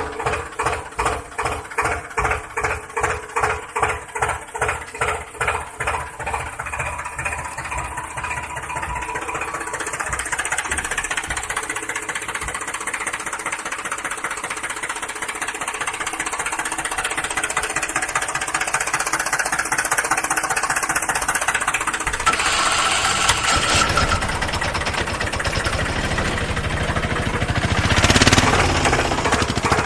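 An engine chugging in an even pulse of about two beats a second for the first several seconds, then running more steadily. The sound changes about 22 seconds in and swells briefly louder near the end.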